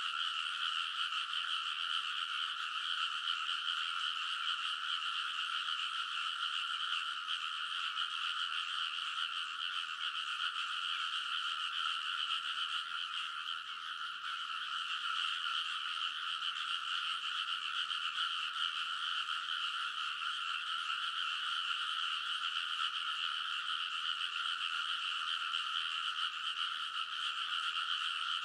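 A dense chorus of many rice-paddy frogs calling at once, a continuous, unbroken din with no pauses.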